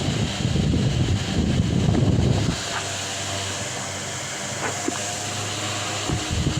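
Delta Gold 50 cm four-blade wall fan running: a steady motor hum, with gusts of its airflow buffeting the microphone for the first couple of seconds and again near the end.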